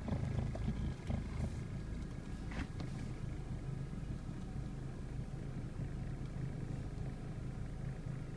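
Lada 2114's eight-blade radiator cooling fan running, a steady low hum heard from inside the cabin, with a few faint clicks in the first three seconds.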